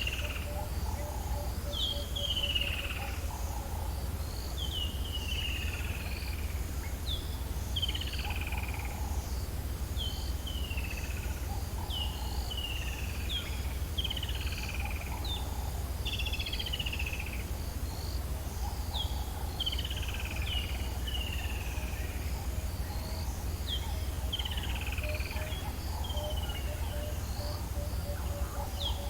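Birds calling in the bush: one call slides down in pitch and repeats every second or two, and a lower rapid pulsing call comes in near the start and again near the end, all over a steady low rumble.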